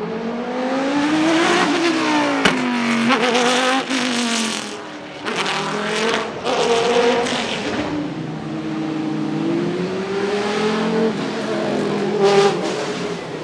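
Judd GV4 4.0-litre V10 of a Dallara SP1 Le Mans prototype revving hard, its pitch rising and dropping again and again as it shifts through the gears. There are brief dips where the throttle is lifted about five and eight seconds in.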